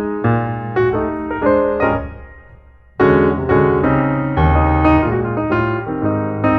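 Background piano music: a melody of struck notes over low bass notes, which fades out about two seconds in and gives way to a fuller piano passage starting abruptly about three seconds in.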